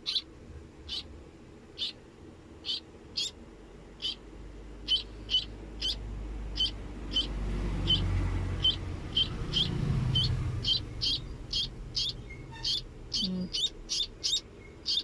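A baby bird chirping: short, high chirps repeated over and over, about once a second at first and coming faster, two or three a second, near the end. A low rumble swells and fades in the middle.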